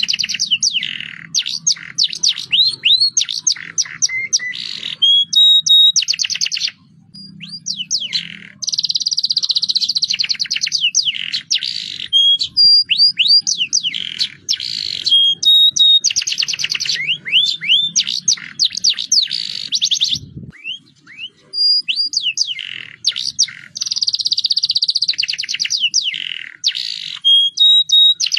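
Domestic canary singing a long continuous song of fast rolling trills, held notes and quick downward-sweeping whistles. The same run of phrases comes round again about every seven to eight seconds.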